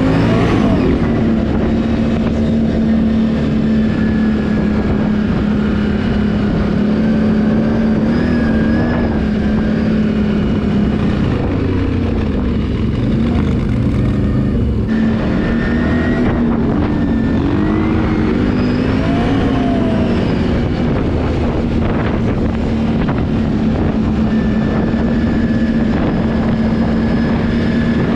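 Can-Am ATV engine running under way at a steady speed, with rough low noise beneath its note. About a third of the way in the pitch wavers up and down for several seconds as the throttle changes, then settles back to an even note.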